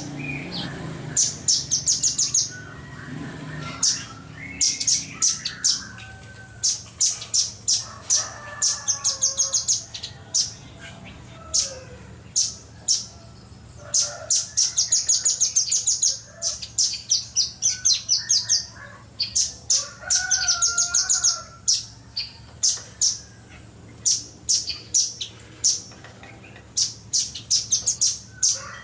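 Velvet-fronted nuthatch (red-billed nuthatch) singing in rapid, tightly packed bursts of sharp, high-pitched notes, burst after burst with short pauses between. Fainter, lower whistling calls of other birds sit underneath.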